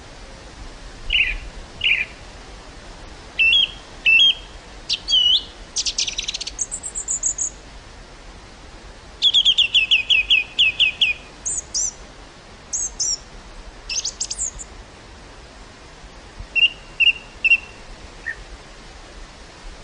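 Steady wind hiss through a field of wildflowers, with small birds chirping and calling over it in scattered phrases. There is a fast trill of about a dozen notes near the middle.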